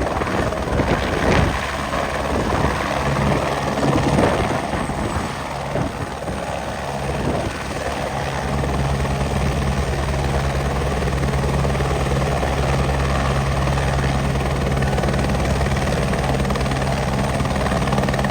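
Helicopter running, a steady low drone of rotor and engine under a dense rushing noise; the sound is uneven for the first several seconds, then settles into an even hum.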